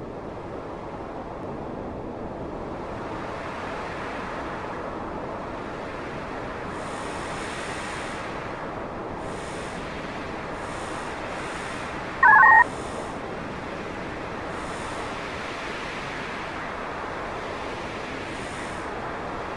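Steady hiss of noise, with faint high shimmers coming and going, broken about twelve seconds in by one short, loud electronic beep of two pitches.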